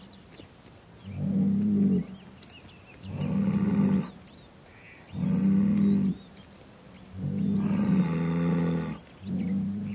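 Bull bellowing over and over: five low, pitched calls roughly two seconds apart, each lasting about a second, the fourth held longer.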